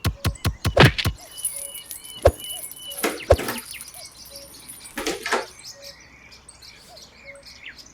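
A fast run of clicks that quickens and stops about a second in. Then bird chirps and insect ambience, with two short louder noises in the middle.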